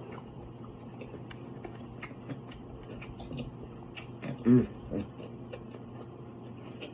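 Close-up eating sounds of a seafood mukbang: irregular sharp clicks and smacks of chewing, with a short hummed 'mm' of enjoyment about four and a half seconds in.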